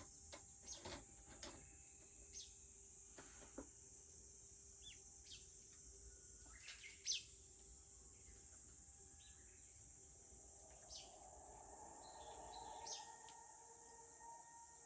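Faint rural outdoor ambience: a steady high-pitched insect drone, with scattered short sharp crackles from a wood campfire and a few brief bird chirps.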